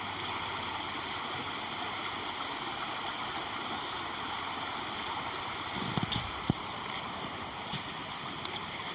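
Rainwater runoff flowing steadily into a drain as a continuous rushing of water, with a brief low thump about six seconds in.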